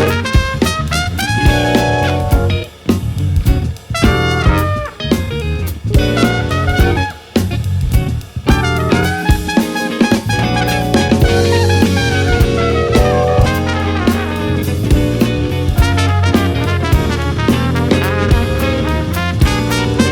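Live band playing an instrumental passage of a jazz-funk tune: horn lines over drum kit and bass, with a few short stop-time breaks in the first half.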